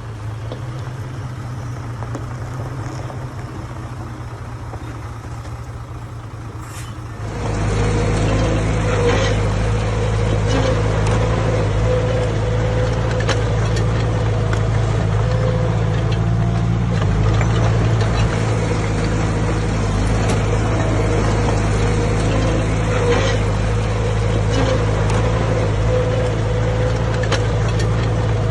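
Heavy diesel earthmoving machinery running steadily with an even low engine hum. It gets suddenly louder a few seconds in, with occasional faint knocks.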